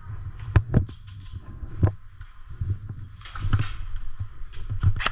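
Low, uneven thumping of an airsoft player moving with a body-worn camera, with three sharp cracks in the first two seconds and a short rustle a little past the middle.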